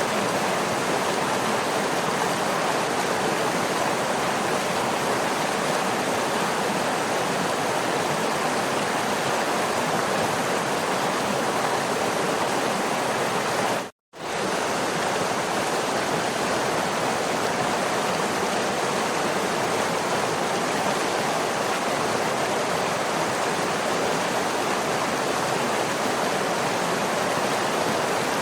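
Waterfall: steady rushing and splashing of falling water. It drops out to silence for a fraction of a second about halfway through, then resumes at the same level.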